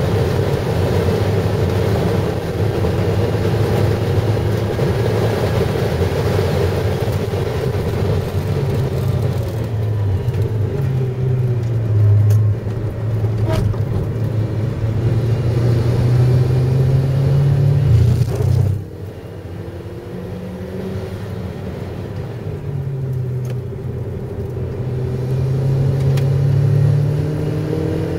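Car engine and road noise heard from inside the cabin while the car is driven hard on track: the engine pulls with rising pitch, dips briefly about twelve seconds in, then drops away sharply as the throttle is lifted about nineteen seconds in before pulling up again.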